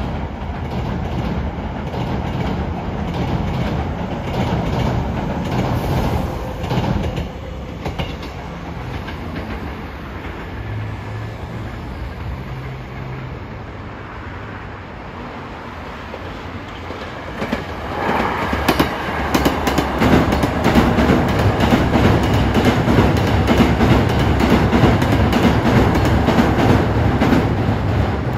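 Hankyu electric commuter trains crossing a girder railway bridge: a steady rumble for the first half, quieter in the middle, then from about two-thirds through a louder, closer passage with a rapid clickety-clack of wheels over the rail joints.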